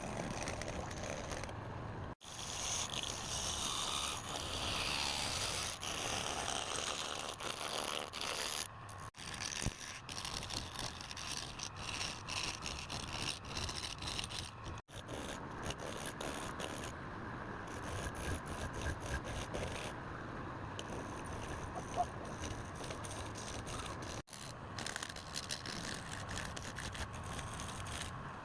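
Woodworking machine noise with steady scraping and whirring of wood being worked, broken by a few abrupt cuts between clips.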